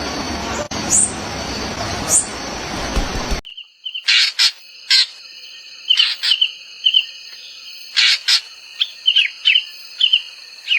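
Small songbirds chirping. For the first few seconds a short, high, rising chirp repeats about once a second over a loud, steady rushing noise. It then cuts suddenly to a quieter scene of sharp chirps and quick repeated call notes over a steady high tone.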